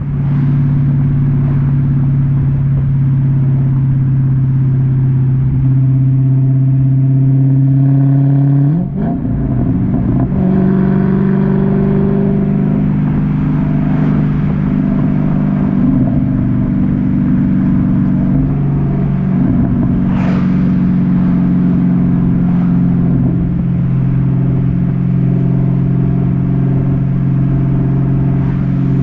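Dodge Challenger SRT-8's 6.1-litre Hemi V8 exhaust running at fairly steady revs. There is a brief dip about nine seconds in, after which it settles at a slightly higher pitch.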